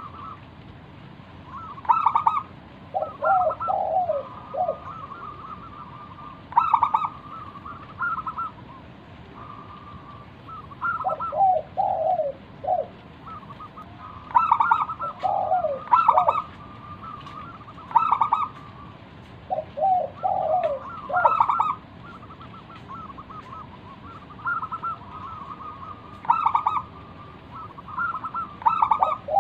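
Zebra dove (perkutut) cooing its rapid staccato song. The phrases repeat every few seconds, each mixing quick notes with lower, falling coos.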